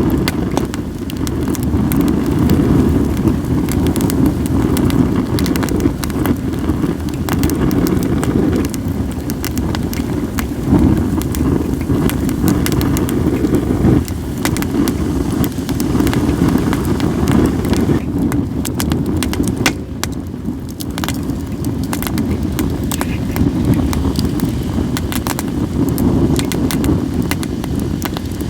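Campfire of acacia and other firewood crackling and popping, with many sharp snaps, under a heavy, gusting rumble of wind on the microphone.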